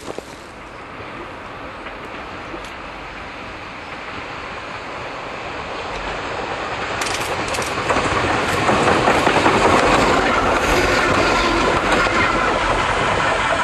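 Eizan Electric Railway Deo 600 series electric railcar approaching along the track, growing louder through the second half, with its wheels clacking over the rail joints.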